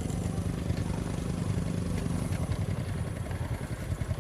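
Motorcycle engine running steadily, with a few light clicks and rattles over it.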